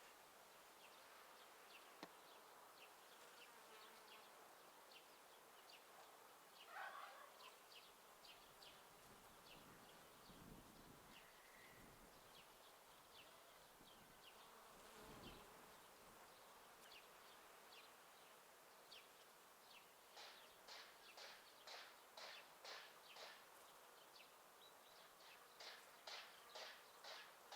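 Quiet garden ambience: an insect buzzing past in the middle, and a small bird calling in a quick series of short high chirps, about two a second, which grow louder in the last third.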